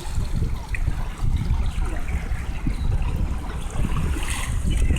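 Beach ambience: water lapping at the shore under a steady low rumble of wind buffeting the microphone.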